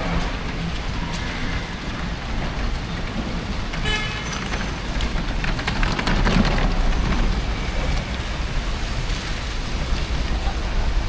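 Steady rain on a city street mixed with traffic noise, with a brief high pitched sound about four seconds in and a louder swell of passing traffic around six seconds in.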